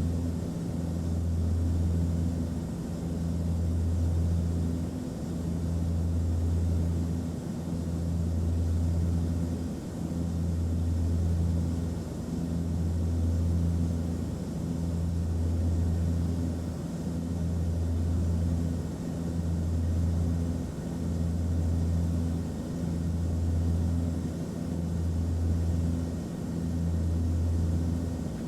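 Airliner cabin noise: a steady low engine drone over an even hiss of rushing air, the low hum swelling and fading about every two seconds.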